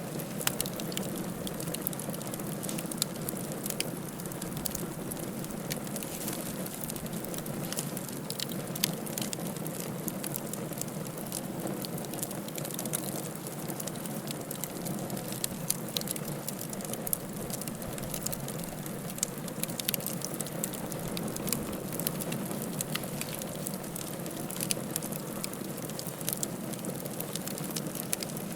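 Wood fire crackling in a fireplace: frequent sharp pops and snaps scattered over a steady low rushing hiss.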